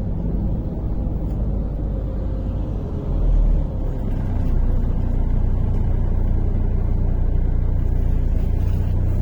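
Inside a MAZ-103 city bus under way: steady engine and road rumble. A short low thud comes about three seconds in, and the running is a little louder from about four seconds.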